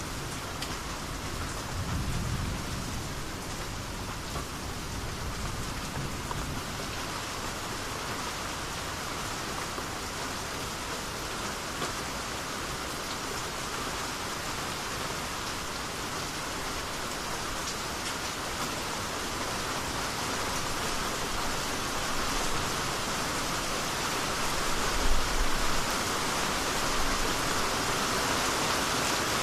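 Steady rain falling and pattering on surfaces, with a brief low rumble of thunder about two seconds in. The rain grows a little heavier over the last third, with a soft low thud near the end.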